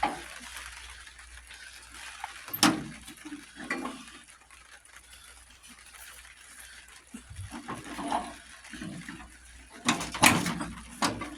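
Scattered metallic clinks and knocks from tools and parts being handled while an old lawn tractor is taken apart for parts.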